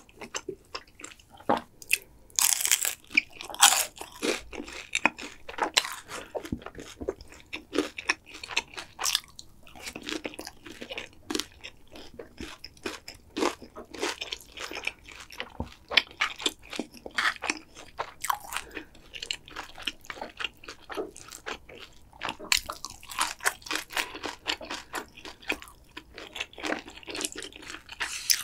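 Close-miked chewing of food, with many irregular crisp crunches and bites that come in thicker clusters a few seconds in and again near the end.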